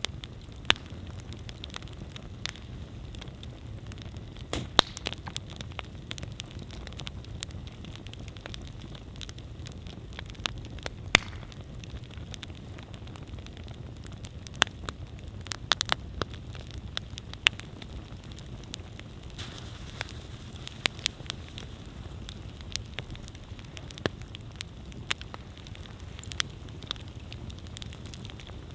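Wood campfire burning with a steady low rumble and irregular sharp crackles and pops, a few of them much louder than the rest.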